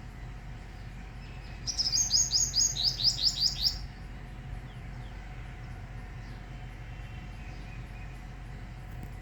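A small bird singing one quick, high trill of about ten downward-slurred notes, roughly five a second, starting about two seconds in and lasting about two seconds, over a steady low rumble.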